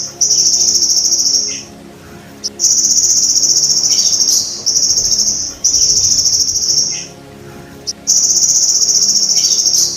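Belalang emas, a singing grasshopper-like insect, stridulating in high, rapid buzzing trills that last about one and a half to two seconds each, with short pauses between them.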